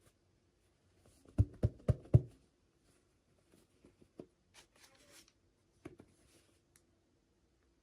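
Toy packaging and small doll pieces being handled. There are four quick knocks about a second and a half in, then light clicks and rustling.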